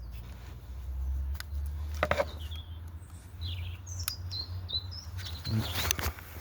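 Small birds chirping in short calls over a low steady hum, with a few sharp clicks and rattles of plastic wiring clips being popped loose on the engine. The clicks are loudest about two seconds in and near the end.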